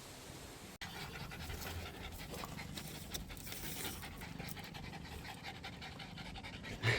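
A dog panting quickly, in fast, even, repeated breaths starting about a second in, with a short louder sound right at the end.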